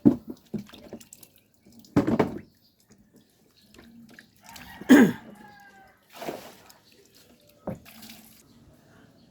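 Water splashing in irregular bursts, about five in all, each a second or two apart.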